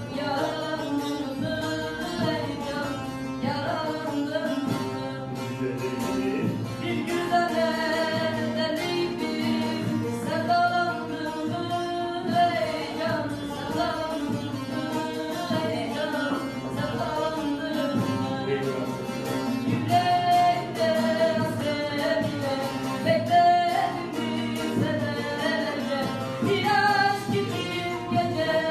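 A voice singing a flowing melody with held, ornamented notes over instrumental accompaniment.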